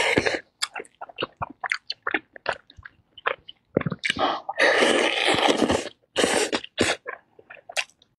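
Close-up eating sounds of a whole boiled chicken: the meat and skin pulled apart by hand and chewed, with many short wet mouth clicks and a few longer noisy stretches of tearing and chewing. The sounds stop just before the end.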